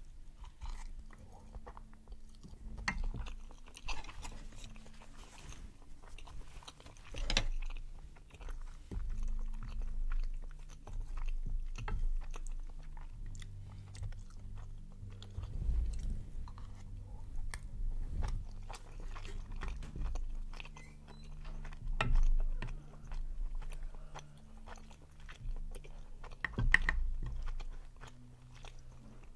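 Close-miked chewing of chewy tteokbokki rice cakes: many small mouth clicks, with louder bites every couple of seconds.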